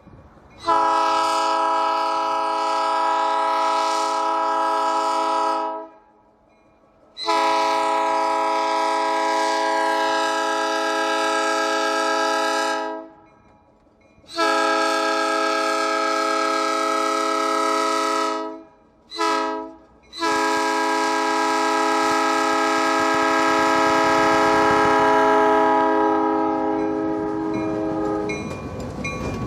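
Diesel locomotive air horn sounding a chord in three long blasts, a short one, then a final long blast held until the train's rumble takes over near the end.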